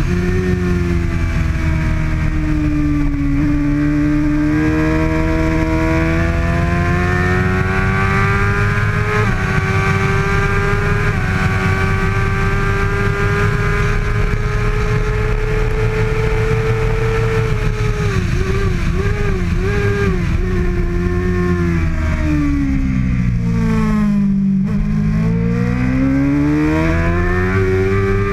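2013 Kawasaki ZX-6R's 636 cc inline-four engine running hard at racing speed, its pitch climbing slowly over a long stretch. A few quick wavers come about two-thirds through, then the revs drop steeply and climb again near the end.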